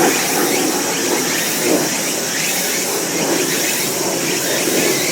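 Layered outdoor ambience dominated by steady road-traffic noise from an overpass, with short high calls repeating quietly above it throughout.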